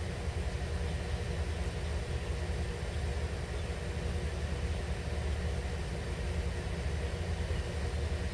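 Steady low background rumble with a faint, even hum over it.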